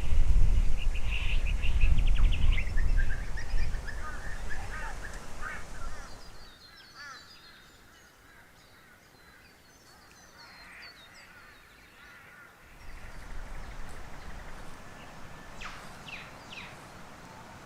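Birds calling in a run of short chirps and notes, with wind gusting on the microphone for the first several seconds, dropping away in the middle and picking up again near the end.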